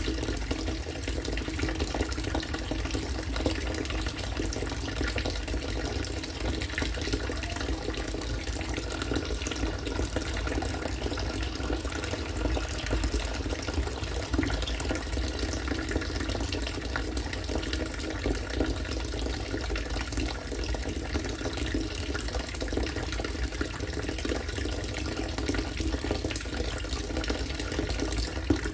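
Harvested rainwater pouring steadily into standing water, a continuous splashing and bubbling with no let-up.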